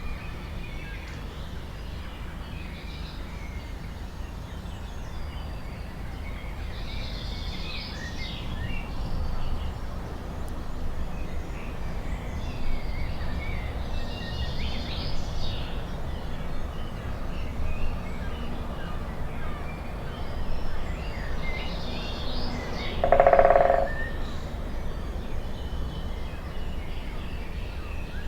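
Forest birds singing, with short high phrases repeating every few seconds over a steady low rumble. Near the end comes one brief, louder, lower-pitched sound.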